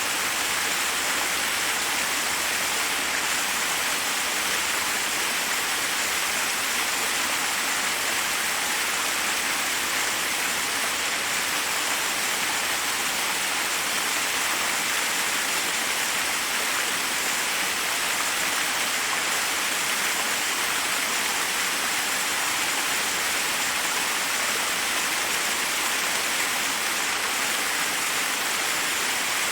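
Forest waterfall: water rushing and splashing over rocks in a steady, unbroken hiss, mostly high and bright with little low rumble.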